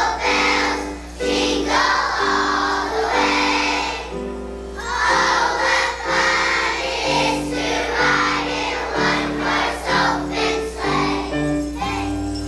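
Young children's choir singing a song together in phrases over a steady instrumental accompaniment.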